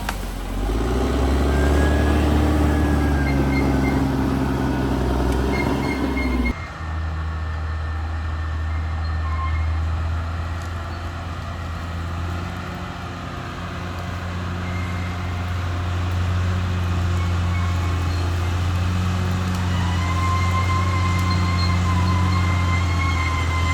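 Caterpillar D6R XL bulldozer's diesel engine running steadily at work, a deep constant engine note. The sound changes abruptly about six and a half seconds in, and a thin high squeal rises over the engine near the end.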